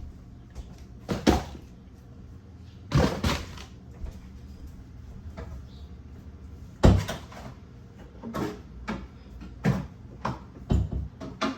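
Irregular clunks and knocks of food containers and refrigerator fittings being handled and set down while a refrigerator is being emptied, about seven or eight separate knocks, some in quick pairs.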